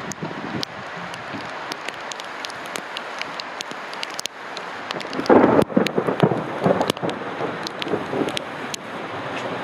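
Steady heavy rain with scattered sharp drips, then about five seconds in a loud crack of thunder that rumbles on in uneven waves for about three seconds.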